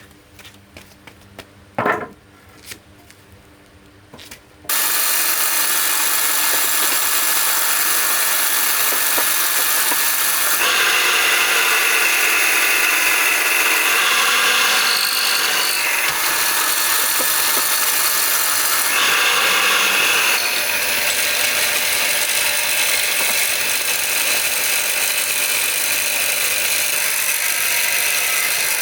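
A handheld power tool starts suddenly about five seconds in and runs steadily and loudly, its sound turning brighter and harsher for a few seconds twice along the way. Before it starts there are only a few light clicks and one short knock.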